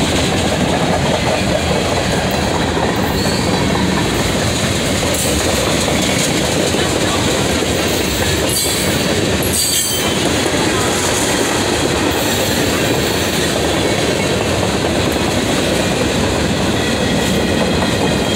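Freight cars of a passing mixed freight train rolling by at close range: a steady, loud rumble and clatter of steel wheels on the rails.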